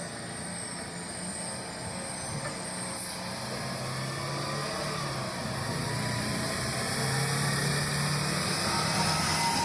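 Heavy truck engine running steadily, gradually getting louder.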